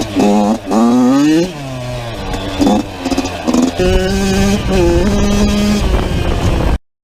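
Yamaha YZ80's single-cylinder two-stroke engine, fitted with a Chinese aftermarket top end, revving in repeated blips: the pitch climbs and drops several times, with steadier running between.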